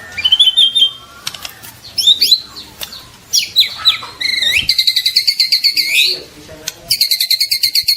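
White-rumped shama singing: loud, varied whistles and sweeping notes, then from about four seconds in long, rapid trills of quickly repeated notes, the 'trotol' song, broken briefly about a second before the end.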